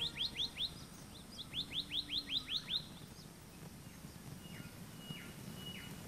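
A bird calling: two quick runs of short notes that each slur downward, about six a second, followed later by three fainter whistled notes.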